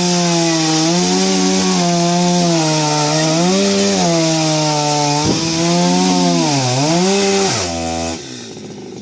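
Two-stroke chainsaw running at full throttle while cutting wood, its pitch sagging twice as the chain loads up in the cut. Near the end the throttle is released and the saw drops to a quiet idle.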